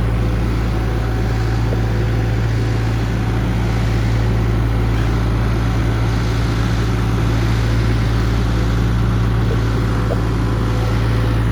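Case skid steer's diesel engine running steadily with a low, even hum, heard close from the machine.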